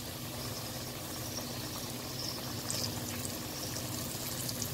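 Flour-coated chicken fillets deep-frying in hot ghee: a steady sizzle with fine crackling and a few sharper pops in the second half. The pieces have just gone into the hot fat, their coating still raw white.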